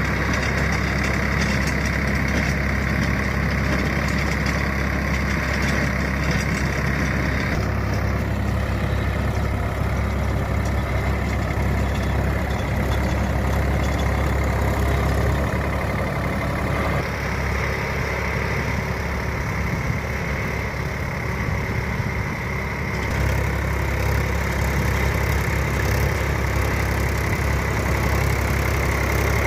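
Swaraj 855 FE tractor's diesel engine running steadily, its tone shifting abruptly a few times.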